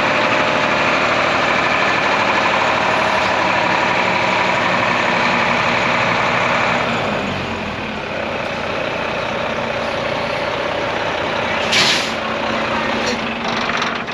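Diesel engine of a 2012 Volvo VNM42T day cab tractor running; its sound drops and settles about seven seconds in. Near twelve seconds a short hiss of air is released.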